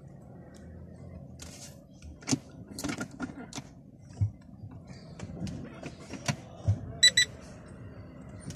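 Scattered clicks and knocks, with a short run of quick high electronic beeps about seven seconds in.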